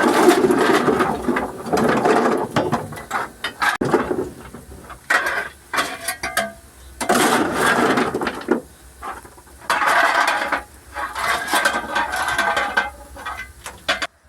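Loud metal rattling and clanking in uneven bursts of one to two seconds. It cuts off suddenly near the end.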